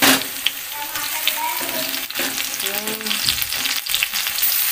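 Chopped tomatoes dropping into hot oil in a steel kadhai with a loud burst of sizzle at the start, then onions and tomatoes frying with a steady sizzle and occasional clicks of a metal spoon against the pan.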